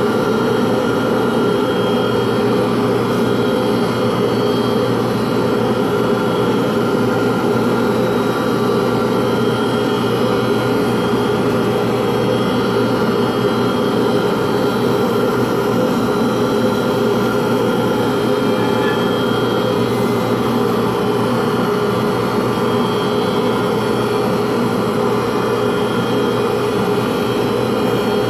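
Electric motor of a pen-turning machine running steadily at constant speed, a loud, even hum with a fixed pitch and no pauses or changes.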